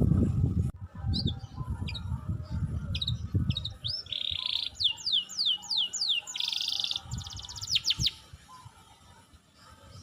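Songbird singing: a run of short, sharp notes, then buzzy trills and a quick series of falling whistles, fading out near the end. A low rumble on the microphone under the first few seconds.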